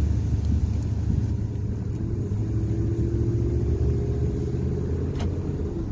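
2003 truck's engine running with a steady low rumble. A faint steady whine joins about two seconds in and stops just before the end, and a single click sounds near the end.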